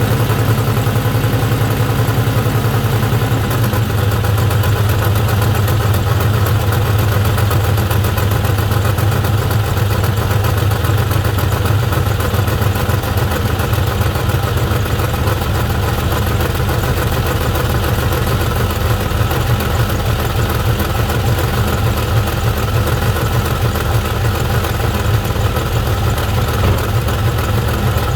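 Ford 4.6-litre two-valve V8 idling steadily, with a clacking, ticking noise coming from the engine.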